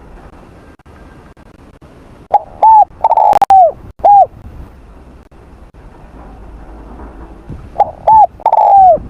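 Spotted dove cooing: two phrases about five seconds apart. Each is a short note, then a rounded coo, then a longer coo that falls away at the end.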